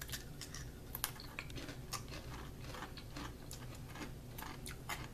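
Two people biting into and chewing crispy Pucca pretzel snacks, a quick irregular run of small crisp crunches.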